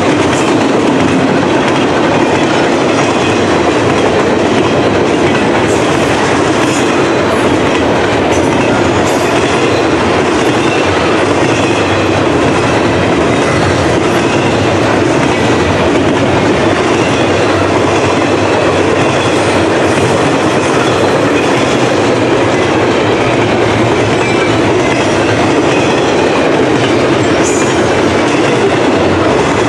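Cars of an intermodal freight train rolling past: a steady loud rumble and clatter of steel wheels on the rails, with a few brief high wheel squeals.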